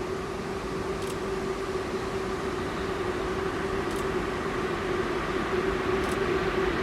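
Electric train approaching along the line: a steady hum with a drone under it, growing slowly louder.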